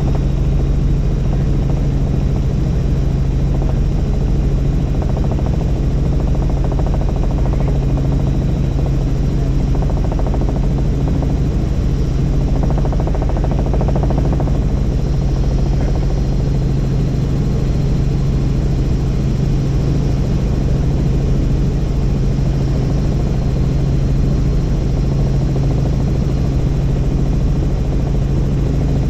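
Helicopter engine and rotor running steadily in flight: a constant, loud low drone that does not change.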